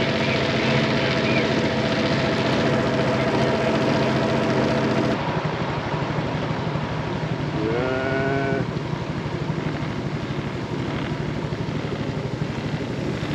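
Small motorboat's engine running steadily underway, a continuous drone with a low throb.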